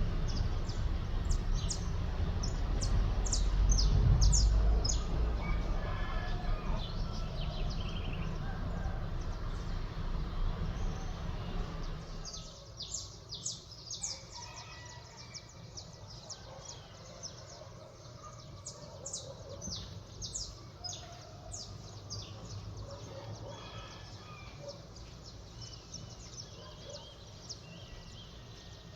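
Small birds chirping in a dawn chorus: many short, high, rapid calls throughout. Under them a low rumble is loudest about four seconds in and fades out around twelve seconds in.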